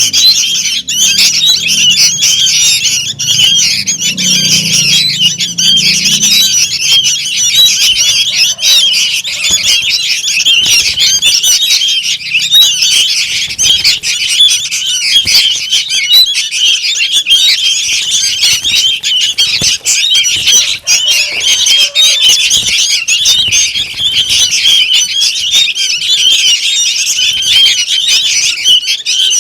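A noisy chorus of young sooty-headed bulbuls calling without pause: many shrill chirps overlapping in a dense, unbroken chatter.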